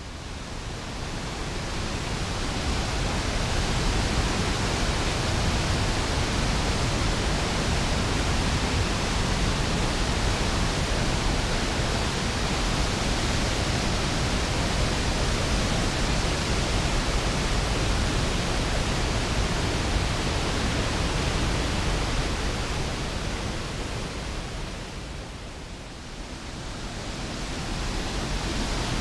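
Waterfall with heavy flow: a steady rush of falling water that fades in at the start and dips briefly near the end.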